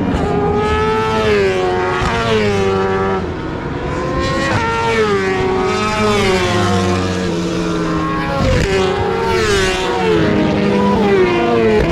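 1000 cc superbike racing motorcycles at full throttle, passing one after another. Their engine notes climb in pitch and fall back at each upshift, several times over.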